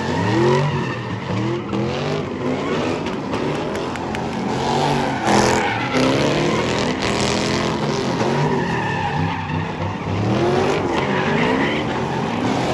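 Several SRT performance cars' engines being revved hard and let fall back, over and over. Their rising and falling pitches overlap one another.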